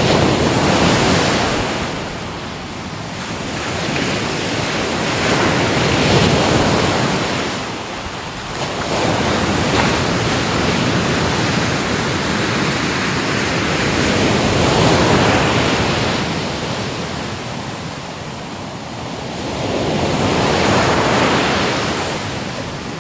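Ocean waves surging and washing on a shore, rising and falling in slow swells every several seconds.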